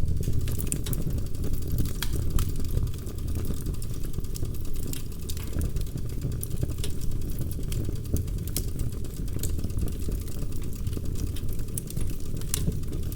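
Wood fire burning in a fireplace, with a steady low rumble and scattered sharp crackles and pops, a few louder than the rest.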